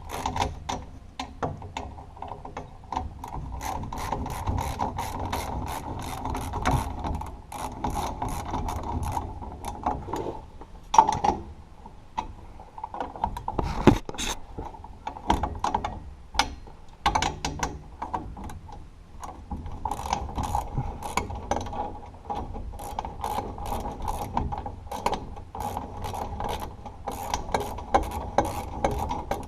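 Hand ratchet wrench clicking in quick runs of strokes as a stubborn exhaust bolt on a Toyota AE86 is worked off, with a couple of louder metallic knocks partway through.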